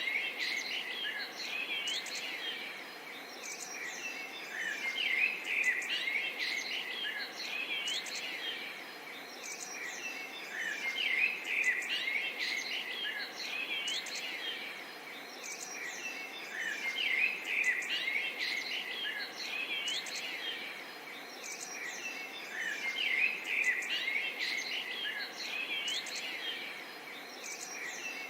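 Several small songbirds chirping and singing busily over the gentle, steady murmur of running water.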